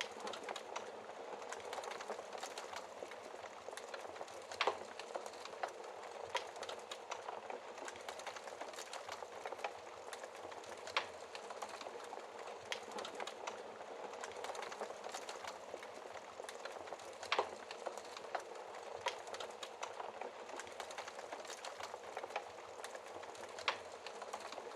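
Wood fire crackling: a steady hiss thick with small ticks, and a sharper pop every six seconds or so.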